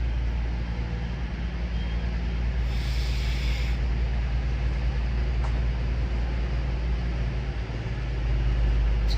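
Train at a station platform running with a steady low rumble and engine hum, with a short hiss of air about three seconds in.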